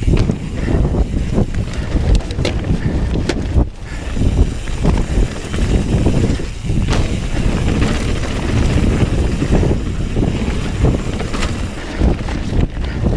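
Wind buffeting the microphone and a continuous low rumble from a Bird Zero 29 hardtail mountain bike being ridden along a trail, with scattered knocks and clicks from the bike over the ground.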